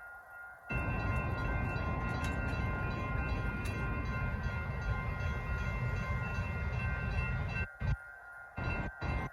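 Freight train cars rolling through a grade crossing with a steady rumble, while the crossing signals' bells keep ringing at several steady pitches. The rumble drops away briefly at the very start and again for about a second near the end.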